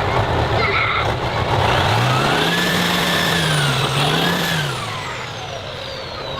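A vehicle engine revving, its pitch rising and falling twice over rough running noise, with a high whine that slides steadily down in pitch through the second half.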